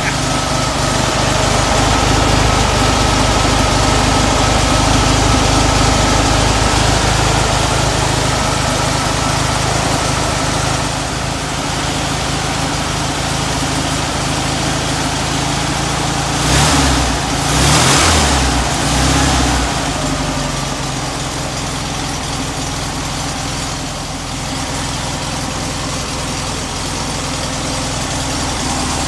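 The restored air-cooled flat-four engine of a 1968 Volkswagen Karmann Ghia idling steadily. It runs a little louder for the first ten seconds or so, and has a couple of short louder surges about 17 seconds in before settling back to an even idle.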